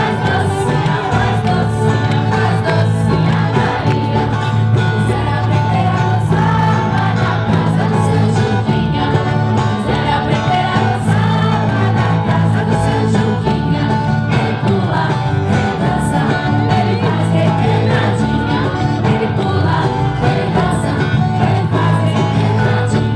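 Music: a group singing a traditional festa junina song with instrumental accompaniment, running steadily.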